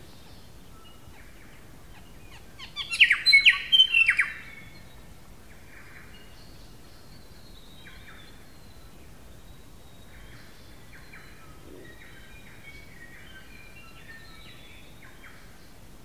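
Birds chirping and calling, with short separate calls scattered throughout and a loud burst of sharp calls about three seconds in, over a steady outdoor hiss.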